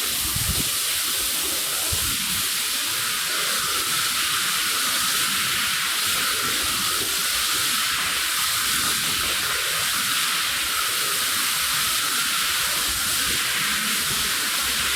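Water spray hissing steadily as a jet is played over a soaked, mud-caked rug, with irregular splashing underneath.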